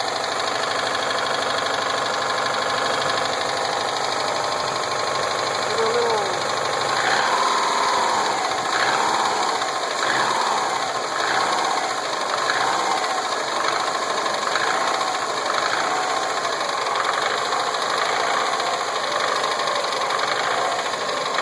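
2007 Subaru Impreza WRX STI's turbocharged 2.5-litre flat-four engine running, its pitch rising and falling about once a second from about a third of the way in. The owner asks whether a knock in it is rod knock.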